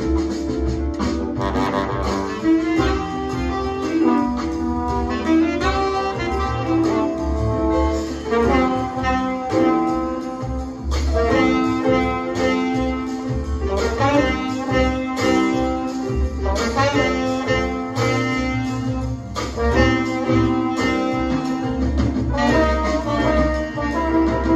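Jazz recording with a saxophone playing over a steady bass line.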